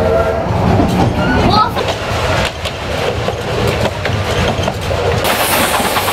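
Narrow-gauge steam train running along the line, heard from on board an open-sided carriage: a steady rumble and clatter of the wheels on the rails. The locomotive's whistle cuts off just at the start, and a hissing rises near the end.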